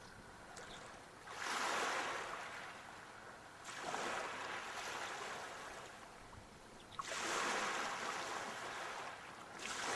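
Sea waves breaking and washing up the shore, four surges that each swell quickly and then fade away.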